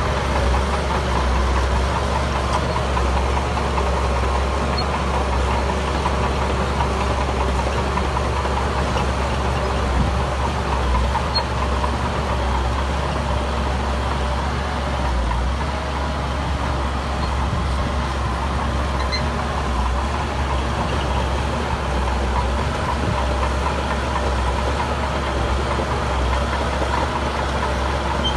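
Heavy earthmoving machine's engine running steadily at an even speed, with no sharp knocks or revs.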